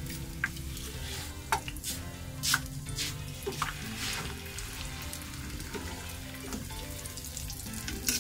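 Grated-potato fritters sizzling as they shallow-fry in a little ghee in a frying pan. A metal spoon clinks against the bowl several times as more batter is scooped into the pan.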